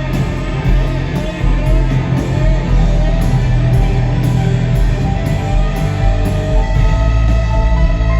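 Live rock band playing loudly and steadily, with electric guitar over bass and drums.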